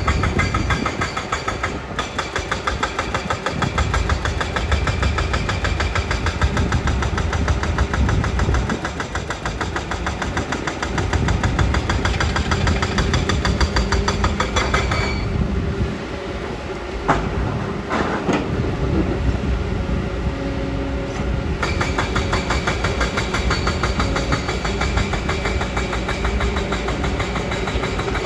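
Kobelco excavator's diesel engine running steadily under work. For several seconds past the middle its note drops back, and a single sharp clank sounds near the middle.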